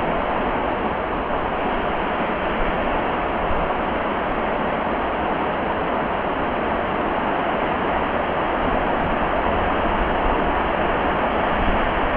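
Heavy rain falling steadily in a rainstorm, a dense, even hiss.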